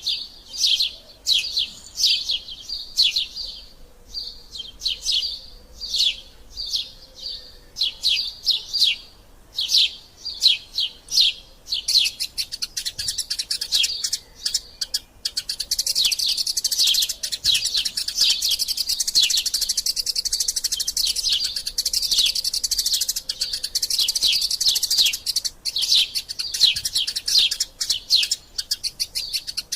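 Eurasian tree sparrows chirping in repeated short, sharp notes. About twelve seconds in, the chirps turn into a fast, dense chatter that carries on.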